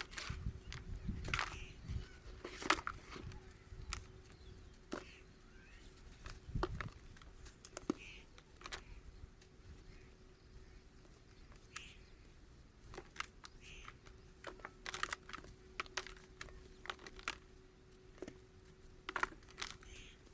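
Dry dust clumps crumbling: irregular sharp crackles and crunches, coming in small clusters, over a faint steady hum.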